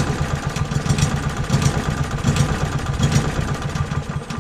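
Small four-stroke lawnmower engine running rough, swelling and sagging in a regular rhythm, then fading out as it stalls near the end. The owner is told to check the governor lever, which might not be engaging properly.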